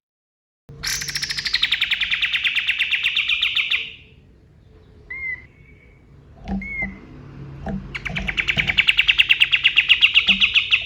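Kapas tembak bird singing two long, rapid, sharp trills of about three seconds each, the first starting slightly higher and settling. Between them come a couple of short whistled notes and a few low knocks.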